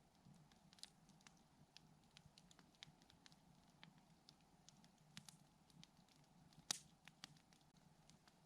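Campfire wood crackling faintly, with scattered small pops and one louder pop about two-thirds of the way through.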